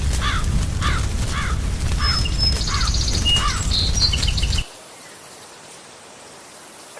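A crow cawing, a run of about six harsh calls roughly two a second, with a few small bird chirps among the later ones. Under them a steady low rumble of the background ambience cuts off suddenly about four and a half seconds in, leaving a faint hiss.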